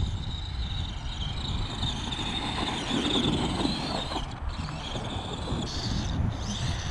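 Arrma Gorgon RC monster truck's electric motor whining as it is driven, the pitch rising and falling with the throttle, over a steady low rumble.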